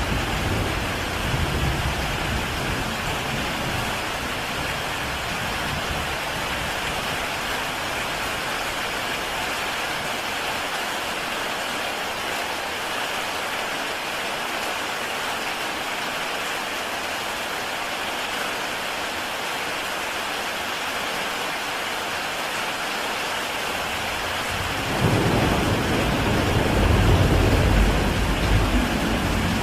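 Heavy rain falling steadily on a tile roof, with a low rumble of thunder dying away in the first few seconds and a louder roll of thunder near the end.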